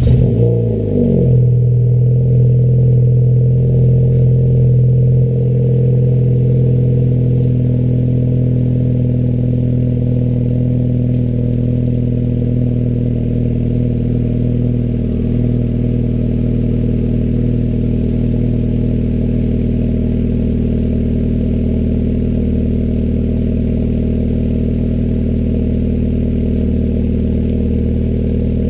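Honda Civic FD's R18 1.8 L four-cylinder catching on a cold start, flaring briefly, then settling into a steady fast cold idle through an HKS medium muffler and performance resonator, easing down slightly about five seconds in.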